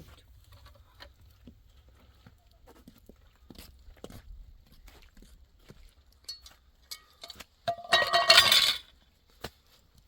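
Scattered light knocks and clinks of hard objects, then about eight seconds in a loud clinking clatter lasting about a second.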